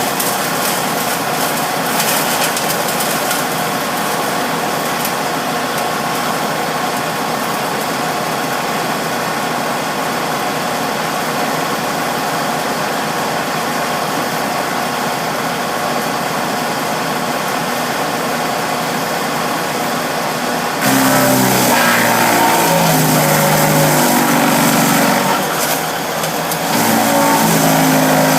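Bearcat wood chipper's engine running steadily. About two-thirds of the way in the sound turns abruptly louder, and the engine pitch shifts up and down several times.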